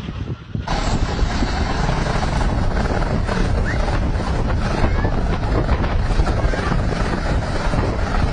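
Helicopter running close by: loud, steady rotor and engine noise with a rapid low beating from the blades. It cuts in sharply about half a second in.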